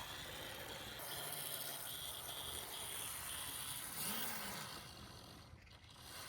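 Faint whir of a Z-scale AZL F7 locomotive's small electric motor and gears running on track.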